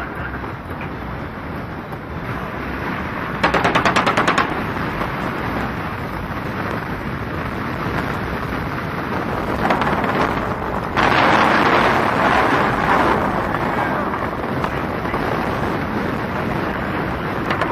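Automatic gunfire in rapid bursts, one lasting about a second near the start, over a steady rumble of engine and wind noise, with a louder stretch of rushing noise past the middle.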